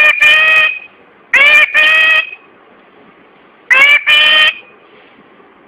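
Pet parrot calling loudly three times, each call a short rising note followed at once by a longer held note, with a harsh honking quality.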